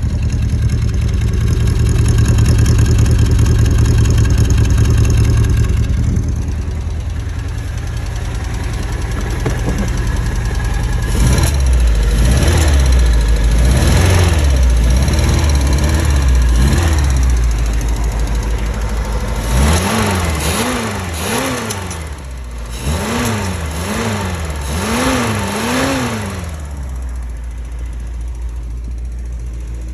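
Reliant Rialto's 848 cc four-cylinder engine running on choke, freshly revived after being a non-runner. It is blipped up and down repeatedly about a third of the way in, then given a quicker series of about six short revs past the middle, and settles back to a steady idle near the end.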